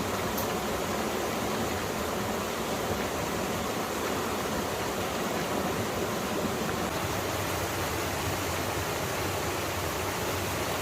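Mountain stream water rushing and splashing over rocks, a steady even flow.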